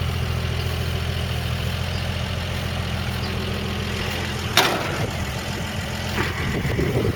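1955 Chevrolet 3100's original 235 cubic inch straight-six running at a steady idle. A single sharp clunk comes about four and a half seconds in.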